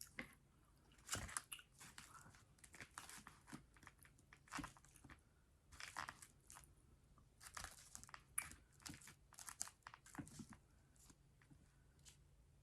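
Close-miked chewing of fast food, with irregular crunches and mouth clicks.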